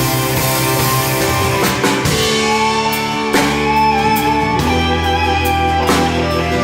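Live band playing an instrumental passage with guitar, bass and drums, with regular drum and cymbal hits and a held lead melody line over it that moves to new notes a few times.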